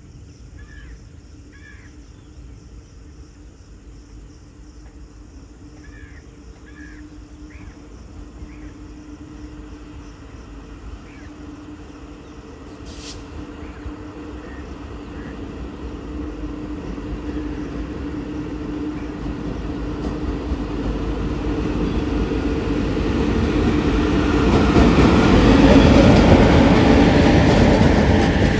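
Electric-locomotive-hauled passenger train approaching along the track and running past the platform. A steady hum grows slowly louder for about twenty seconds, then becomes a loud rush of wheels on rails as the coaches go by near the end.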